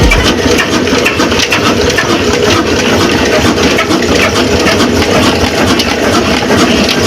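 Big old desi diesel engine running steadily and loudly, with a dense rapid clatter.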